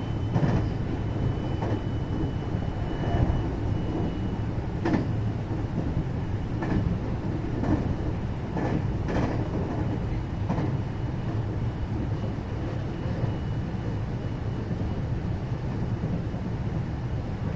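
Interior running noise of a JR 521 series electric multiple unit at speed, heard inside the motor car: a steady rumble with sharp, unevenly spaced knocks as the wheels pass over rail joints. A faint thin high tone sounds for the first few seconds and then stops.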